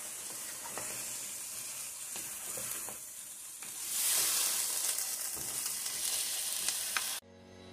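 Sliced beef and potatoes sizzling in a hot pan as a wooden spatula stirs and scrapes them, with small scattered ticks; the sizzle grows louder about halfway through. It cuts off suddenly near the end, giving way to music.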